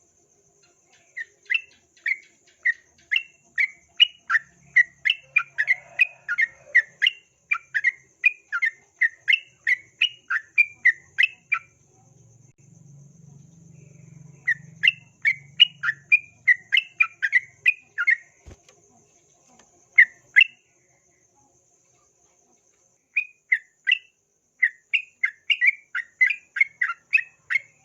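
Yellow-vented bulbul (trucukan) calling in rapid runs of short, sharp chattering notes, about three a second. The runs break off twice and pick up again.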